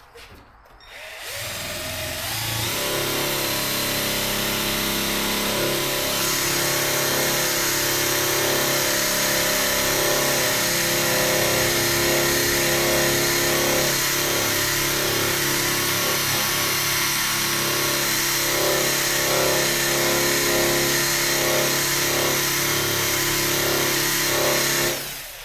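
Electric polisher with a wool pad, buffing a test spot on old paint to lift stains. It spins up about a second in, runs steadily with small changes in pitch as it is worked, and stops near the end.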